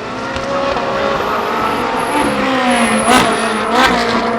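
Ferrari 458 Challenge EVO race cars' V8 engines running hard on track, several engines heard at once with their pitch rising and falling. Two sharp cracks cut through, about three and about four seconds in.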